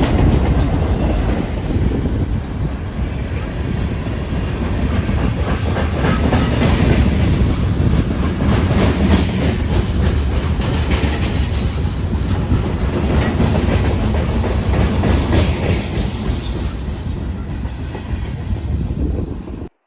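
A train passing close by, a loud steady rumble with its wheels clacking over rail joints. The sound cuts off suddenly at the end.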